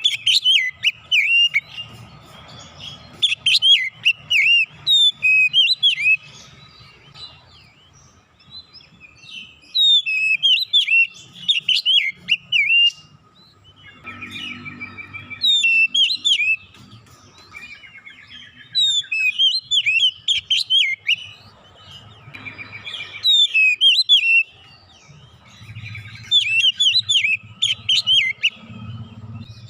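Oriental magpie-robin (kacer) singing loud bursts of rapid, varied whistled phrases, a few seconds each with short pauses between. The song is full of mimicked phrases (isian).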